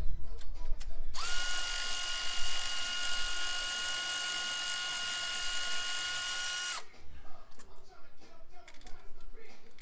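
A cordless power tool's motor spins up about a second in, runs steadily with a whine for about five and a half seconds, then winds down. Ratchet clicking comes before and after it.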